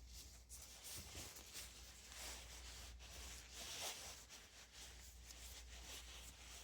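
Faint rubbing and wiping as the box fan motor's shaft washers are cleaned by hand, irregular, with louder swells about two seconds in and again about four seconds in.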